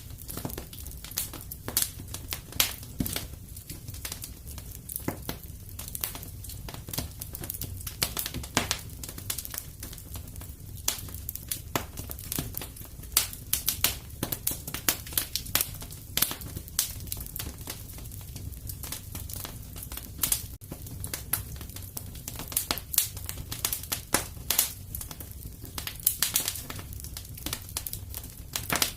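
Wood fire crackling and popping in a fireplace: irregular sharp snaps, some louder than others, over a low steady rumble.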